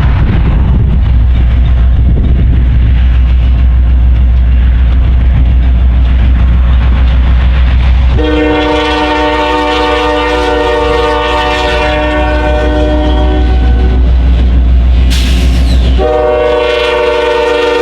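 A diesel locomotive's EMD 710 prime mover runs with a loud, steady low rumble. About halfway through, the locomotive's chord horn sounds a long blast of several notes, stops briefly, then sounds a second long blast.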